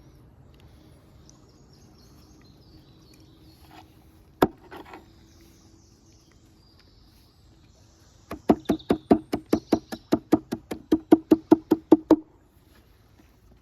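Knife chopping on a wooden cutting board: one knock, then a quick even run of about twenty chops, about five a second, lasting some four seconds.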